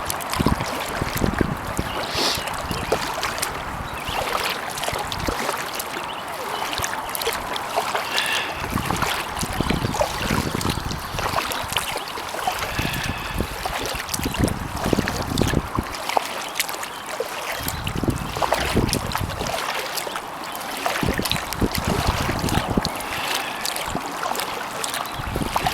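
Kayak paddle strokes dipping, dripping and trickling in pond water, with gusts of breeze rumbling on the microphone now and then.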